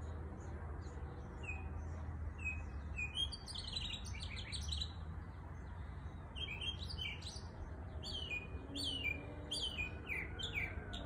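Small birds chirping: many short, quick calls, busier in the second half, over a steady low rumble.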